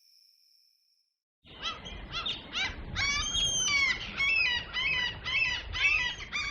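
Birds chirping in a busy chorus of quick, repeated calls, starting about a second and a half in, used as a morning ambience effect. Before it, a faint steady high trill stops about a second in.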